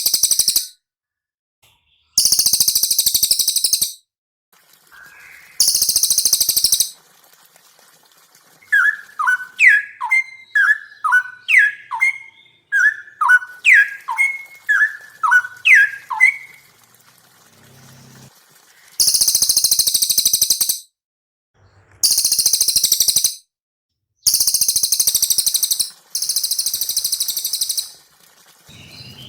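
Cililin singing very high, rapid, shrill trills in bursts of one to two seconds separated by short pauses. In the middle, a run of lower, clear whistled notes that sweep downward, about two a second, from a straw-headed bulbul (cucak rowo).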